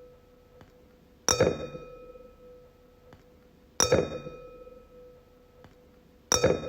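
A wine glass tapped three times, about two and a half seconds apart, each tap leaving a clear ringing tone with fainter higher overtones that fades away.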